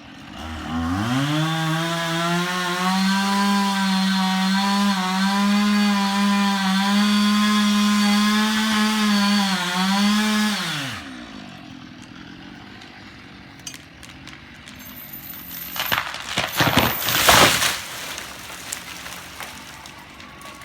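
Husqvarna two-stroke chainsaw revved up to full throttle and held there for about ten seconds, its pitch sagging slightly under cutting load before the throttle is released and it winds down. A few seconds later comes a loud burst of crashing noise.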